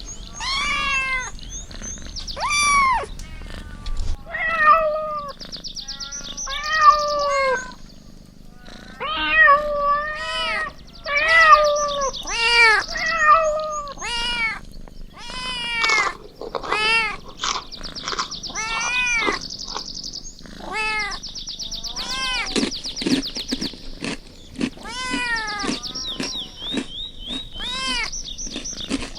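Kittens meowing over and over: many short, high-pitched meows that rise and fall, coming thick and fast and overlapping.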